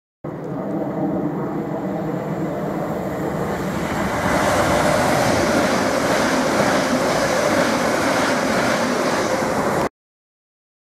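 Great Northern electric multiple unit passing the platform, its noise growing from about four seconds in as it draws level, with a faint steady whine. The sound starts and cuts off abruptly.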